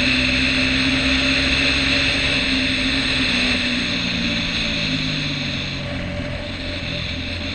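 KTM Duke 390's single-cylinder engine running at a steady cruise under a steady rush of wind and road noise; the engine note drops a little and eases off about halfway through as the bike slows into a bend.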